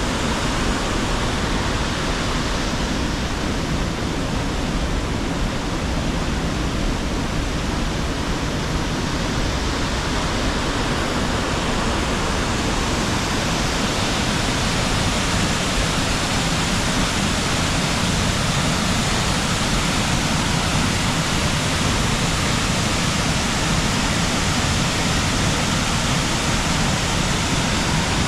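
Waterfall and river water rushing, a dense and even noise with no breaks.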